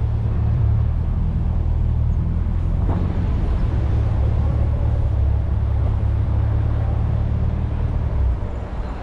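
1994 VW Gol with a 1.6 L CHT engine on the road, heard from an external camera: a steady low rumble of engine, tyres and wind. It eases off a little near the end.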